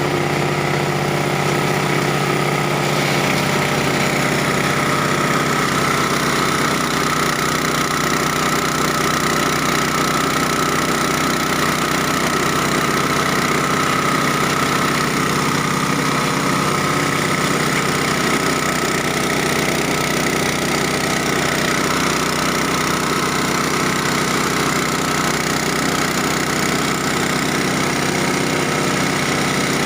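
Engine of a multipurpose cassava chopping and grinding machine running steadily, its pitch shifting slightly about three seconds in.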